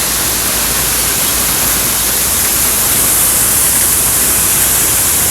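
Steady hiss of a severe thunderstorm's strong wind and rain.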